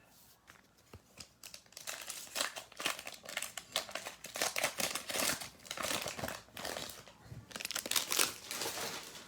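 Plastic wrapper of a basketball trading card pack being torn open and crinkled by hand, a dense irregular crackling that starts about a second and a half in and runs on for several seconds.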